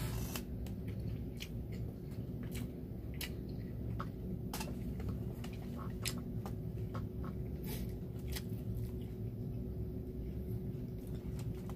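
A person chewing food quietly with the mouth closed. Short, irregular mouth clicks and smacks are scattered through it, over a faint steady hum.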